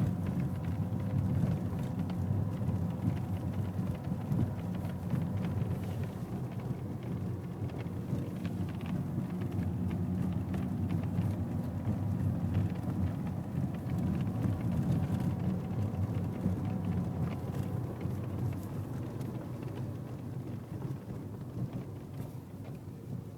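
BMW E90 car running on the road: a steady low rumble with faint thin steady tones above it, easing off over the last few seconds.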